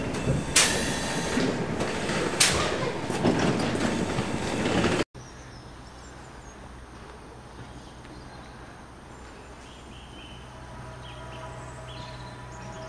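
London Underground A Stock electric train running loudly alongside the platform, with sharp wheel clacks about half a second and two and a half seconds in. After a sudden cut about five seconds in, a much quieter steady hum as another A Stock train approaches round a curve, with faint thin tones near the end.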